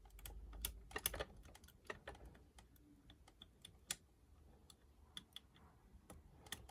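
Faint, irregular small metallic clicks and taps of a lock pick working the levers inside a 5-lever mortice lock, lifting and testing them one by one, with a few sharper clicks about a second in and near four seconds.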